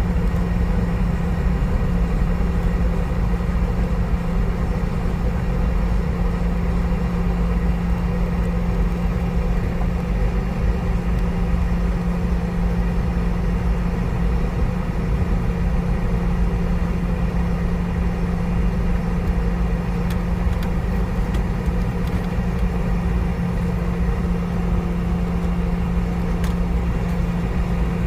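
Cabin noise of a Boeing 717-200 with its rear-mounted Rolls-Royce BR715 engines running: a steady low rumble with a strong constant hum, holding one pitch throughout.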